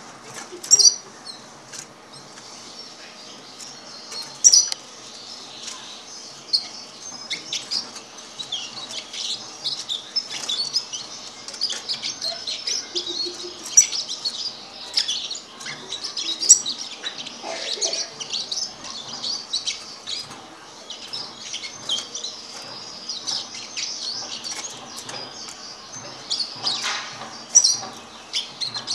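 Young hooded siskin × canary hybrid, about a month old, twittering in a run of quick high chirps, with a few louder sharp calls.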